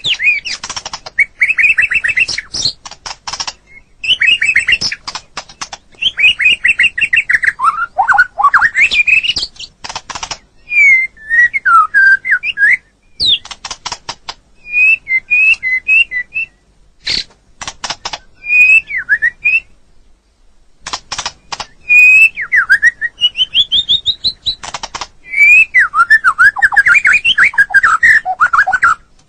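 White-rumped shama (murai batu) in full song: a varied string of whistled, warbling phrases broken by fast runs of dry clicks, with brief pauses, one of about a second past the middle.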